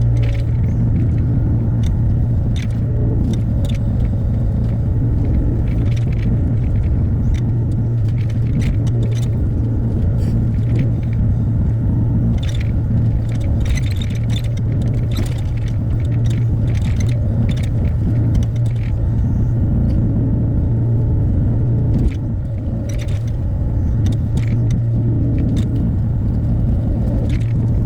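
Hyundai HX60A excavator's diesel engine running steadily with a low drone, overlaid by frequent irregular clanks, rattles and scrapes from the machine working.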